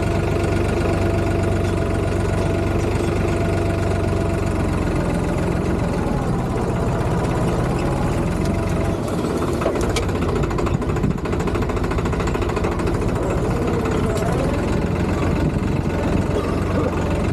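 Tractor engine running steadily, with a single sharp click about ten seconds in.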